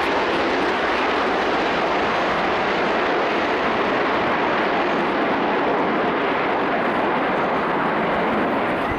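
Aircraft engine noise, a steady, even roar that holds at one level and cuts off suddenly at the end.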